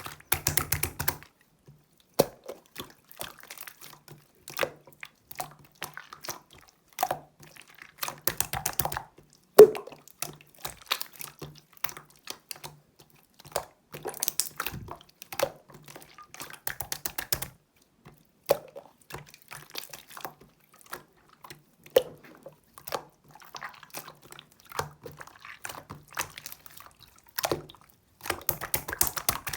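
Clear slime being squished, stretched and folded by hand: irregular runs of wet clicking and crackling, with sharp single pops every few seconds as trapped air bubbles burst.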